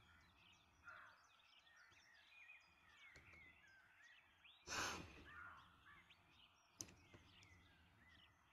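Faint outdoor nature ambience with small birds chirping in short gliding calls throughout. A brief, louder whoosh comes about five seconds in, and a single tick near seven seconds.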